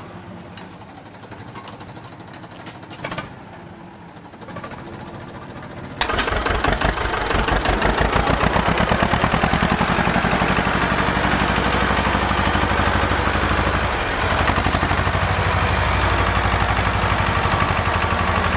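An engine running with a rapid, even chugging pulse. It comes in suddenly and loud about six seconds in, after a quieter stretch.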